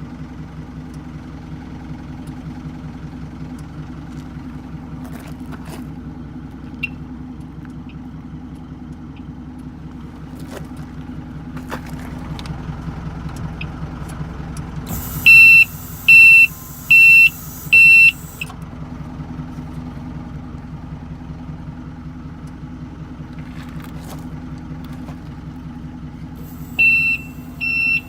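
Hino Dutro truck's engine idling steadily. About halfway through, four loud high-pitched electronic warning beeps sound roughly a second apart, and the beeping starts again near the end.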